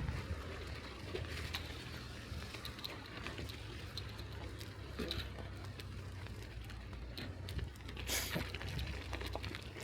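Bicycle riding along a snowy street: steady tyre noise over a low rumble, with scattered small clicks and one short, sharp noise about eight seconds in.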